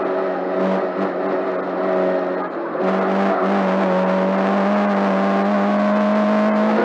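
Lada 21011 rally car's four-cylinder engine running hard at high revs, heard from inside the cabin. There is a brief break in the note about two and a half seconds in, then the engine pulls steadily with its pitch slowly rising.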